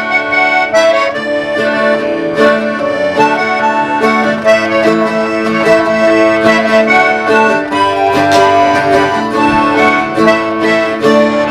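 Instrumental break between sung verses of a folk song. A free-reed instrument plays the melody in held notes over plucked guitar.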